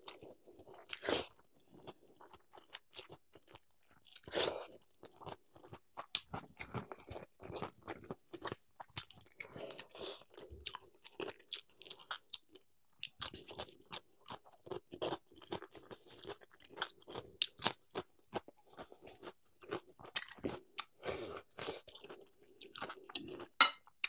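A person chewing and crunching food close to the microphone, mukbang-style: rapid, irregular crunches and wet mouth clicks.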